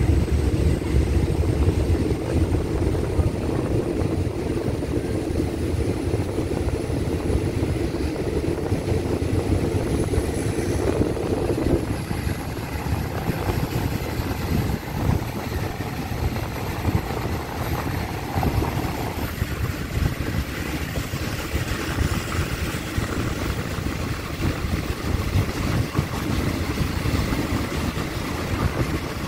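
Diesel-hauled passenger train pulling out of a station and gathering speed, heard from an open coach window: a steady rumble of the locomotive and the wheels on the rails. A faint high whine rises slowly in pitch as the train speeds up.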